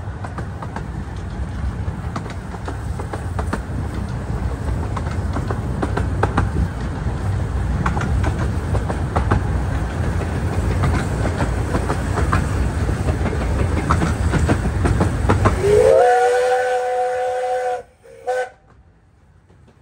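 Miniature railway train running, a steady rumble with rail clicks. About sixteen seconds in the rumble stops and a locomotive's chime whistle slides up into a long blast of about two seconds, followed by one short toot.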